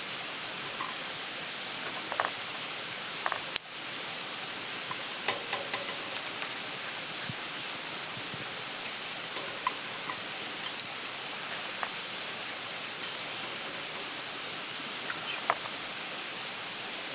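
Campfire burning with a steady hiss and scattered small crackles and pops, and one sharper snap a few seconds in.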